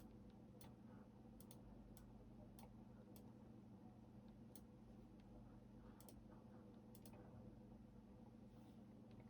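Faint, scattered clicks from a computer keyboard, about a dozen at uneven intervals and some in quick pairs, as the typing pauses, over a low steady hum.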